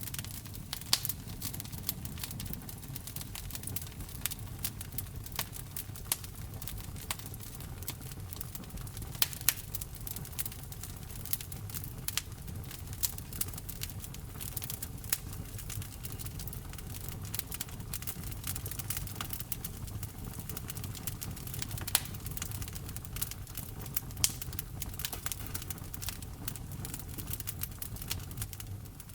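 Wood fire burning in a fireplace, crackling steadily with many small snaps and a few sharper pops over a low rumble of the flames.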